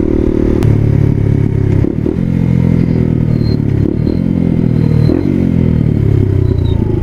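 Dual-sport motorcycle engine running under way, its note stepping up and down several times with throttle and gear changes, with a sharp click about half a second in.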